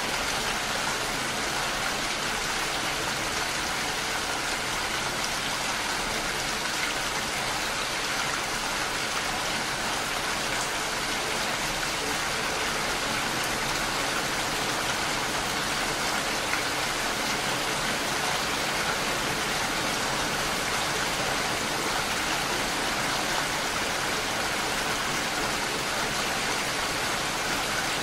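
Steady rain falling, an even hiss with no separate drops or events standing out.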